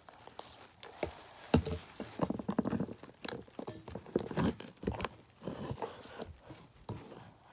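Sticky homemade glue slime being worked by hand, making irregular wet clicks, smacks and squelches.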